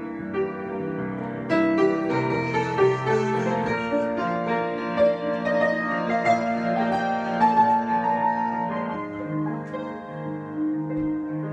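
Solo piano improvisation: sustained chords in the low and middle range under a melody line, with new notes struck every fraction of a second.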